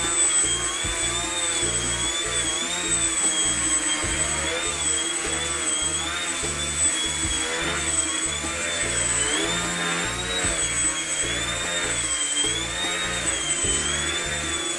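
Small electric motor and propeller of an indoor foam RC plane whining, the pitch rising and falling again and again as the throttle is worked in flight. Background music with a beat plays underneath.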